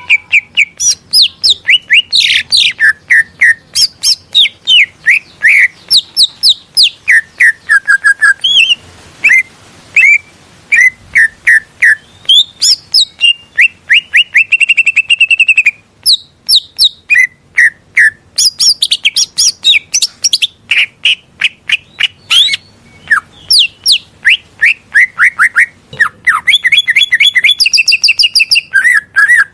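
Leafbird (cucak ijo) song: a loud, continuous stream of varied chirps, sweeping whistled notes and rapid trills, with hardly a pause.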